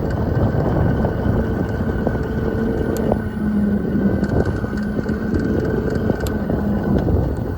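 Wind buffeting the microphone while riding an electric dual-sport motorcycle in eco mode, with a steady whine from its motor running under it.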